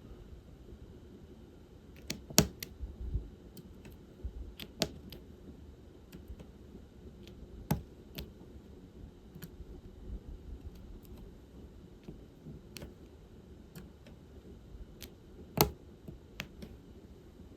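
Diamond painting pen and plastic drills making light, irregular clicks and taps as drills are picked up from the tray and pressed onto the canvas, with a few sharper clicks standing out.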